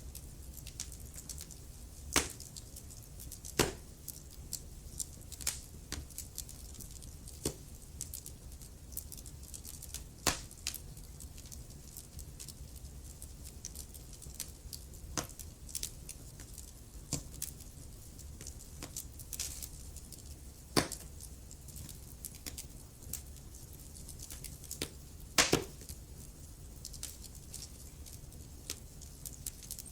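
Wood fire crackling in a fireplace: irregular sharp pops and snaps over a low steady rumble, with a few louder pops about two, ten and twenty-five seconds in.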